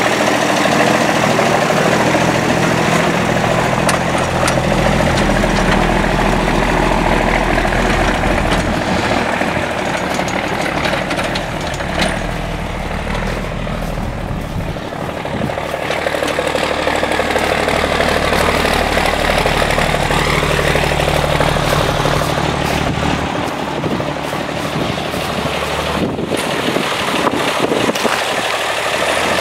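M35A2 deuce-and-a-half truck's multifuel diesel engine running steadily, its note easing off briefly around the middle of the stretch and then picking up again.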